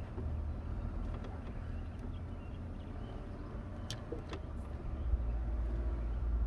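A few light clicks and taps of a dual start/run capacitor being handled and fitted back into its bracket in an air-conditioning unit, over a steady low rumble.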